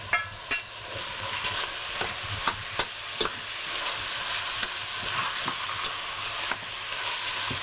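Hot sautéed vegetables scraped from a stainless frying pan into a saucepan with a metal ladle, a few clinks of metal on metal, then a steady sizzle with scattered ladle clicks as the pot is stirred. The pan has been reduced almost dry with white wine, so the fish bones and vegetables fry hard against the bottom.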